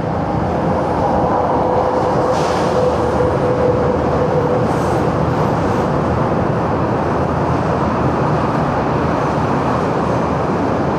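Steady running noise of a motorcycle ride, engine, tyres and rushing air blended into one continuous rumble over a potholed road, with a faint steady tone in the first half.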